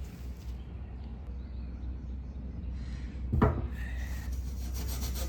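Steel wool starting to scrub a metal gas cap near the end, with even, repeated rubbing strokes, over a steady low rumble; a single short squeak comes about three and a half seconds in.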